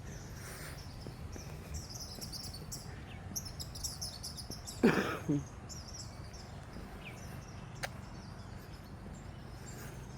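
Several songbirds chirping and singing, with short high calls throughout over a low, steady outdoor background. About halfway through there is one brief, louder sound that falls in pitch.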